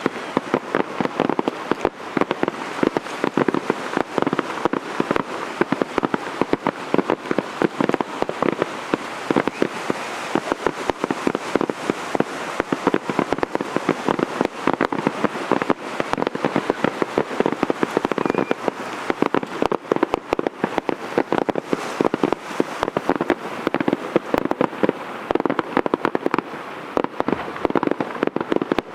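Aerial fireworks going off in a dense, continuous barrage of rapid pops and crackles, loud and without a break.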